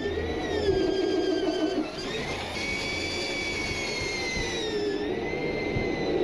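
Electric hand power tool, most likely an angle grinder, running with a steady high whine whose pitch sags about two seconds in and again near five seconds as it comes under load.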